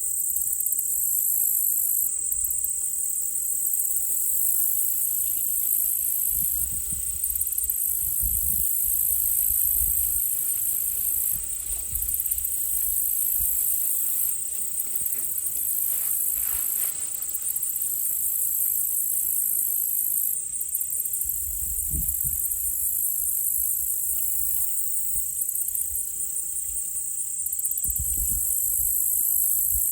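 Steady, high-pitched chorus of crickets and other night insects, swelling and easing every second or two. A few faint low thuds or rumbles come through underneath it.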